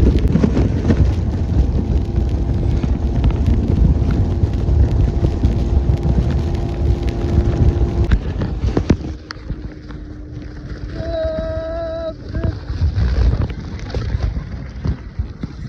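Boat motor running with wind buffeting the microphone: a loud low rumble with a steady hum. It drops away suddenly about nine seconds in to a quieter background, broken by a short high tone about eleven seconds in.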